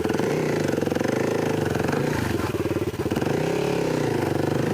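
Kawasaki KLX300 dirt bike's single-cylinder four-stroke engine running while being ridden, revs dipping and rising a little past the middle.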